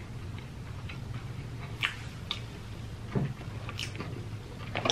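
Close-miked chewing of fried popcorn chicken with the mouth closed: a few soft, sharp wet mouth clicks and smacks over a steady low hum, with a sharper click near the end.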